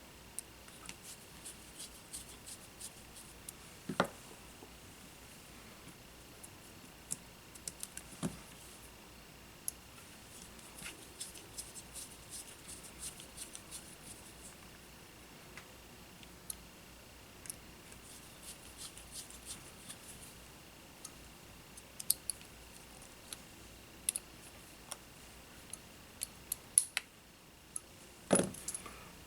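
Small workbench handling sounds while a racing-drone frame is repaired: a run of light clicks and ticks from small parts and hand tools, with heavier knocks about 4 and 8 seconds in and a louder clatter near the end. A faint steady high whine runs underneath.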